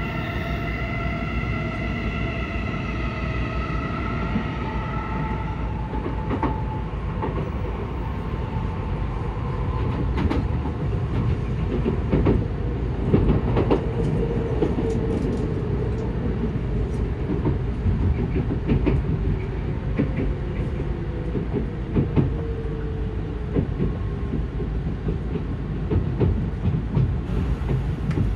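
Running noise inside an N700S Shinkansen car: a steady rumble of wheels on rail with scattered clicks. A whine of several tones at the start slides slightly lower and fades out about five seconds in.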